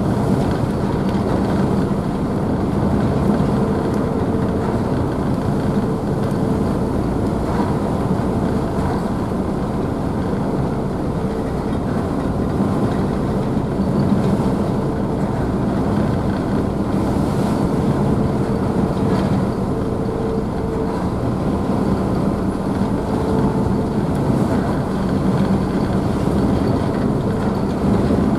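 Car ferry's engines running with a steady low hum, under the rushing wash of the wake and spray churned up behind the stern.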